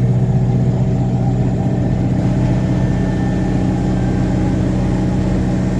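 Revathi C650D drill rig's engine running steadily with a low, even hum and rapid pulsing.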